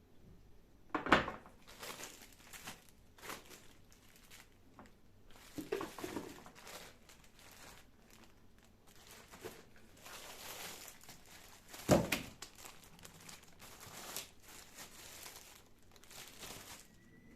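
Crinkling and rustling of something being handled, in short irregular bursts. Two sharp knocks stand out, about a second in and again about eleven seconds later.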